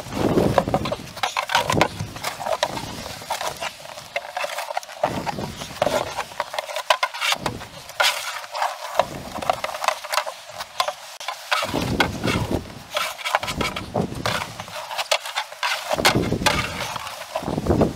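Irregular knocks, clicks and rustling over a steady noisy hiss.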